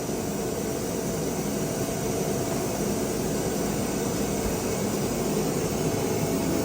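Steady whooshing machine noise with a faint hum, growing slightly louder.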